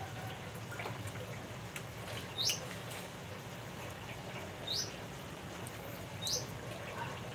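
A bird chirping nearby: three short, high, upward-sliding chirps, about two seconds apart.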